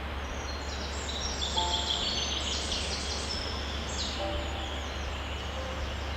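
Small songbirds chirping, with a flurry of rapid high chirps about one to four seconds in, over a steady background hiss.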